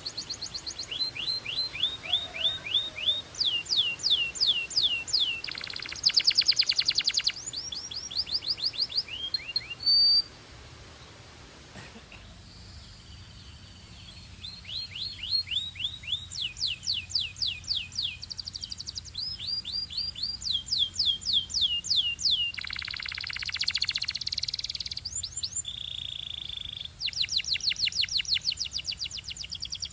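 Belgian canary singing: runs of fast, repeated falling notes and rapid trills, with a short pause about a third of the way in before the song picks up again.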